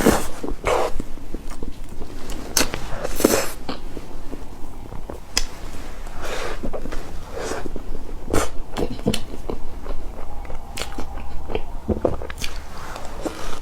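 Close-miked eating sounds of cake: irregular bites and chewing, with short, sharp clicks and brief wet bursts.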